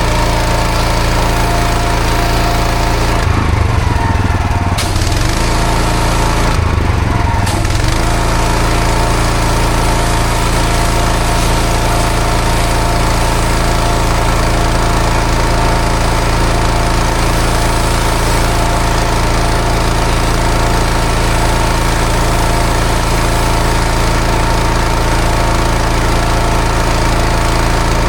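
Pressure washer's engine running steadily under a loud hiss of water spray on block paving. Twice, about three and about six seconds in, the hiss drops out briefly and the engine note changes.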